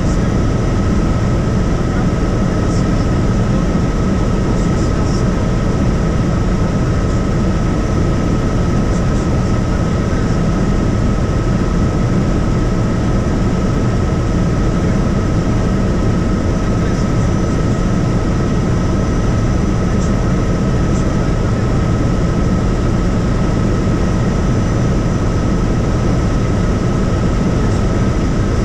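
Helicopter cabin noise in flight: a loud, steady drone of engine and rotor with a thin high whine running through it.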